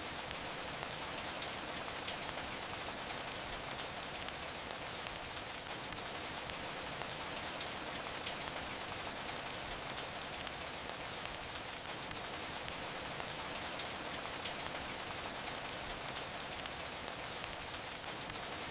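Steady rain falling, with frequent sharp little clicks and pops scattered through it like the crackle of a wood fire.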